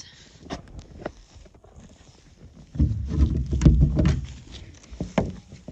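Boots tramping through wet snow: scattered crunches, with a heavier run of low thumping steps in the middle.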